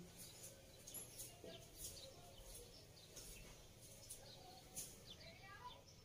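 Near silence, with a few faint bird chirps in the background.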